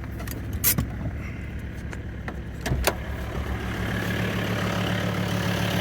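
Mercedes turbo diesel idling steadily in a 1994 Toyota 4Runner, with a few sharp clicks and knocks of the door being opened. The idle grows louder and fuller in the second half.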